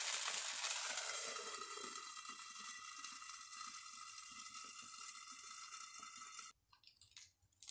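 Thin rice-batter neer dosa sizzling in a hot non-stick pan. The hiss fades as the pan is covered with a lid, then cuts off suddenly about six and a half seconds in.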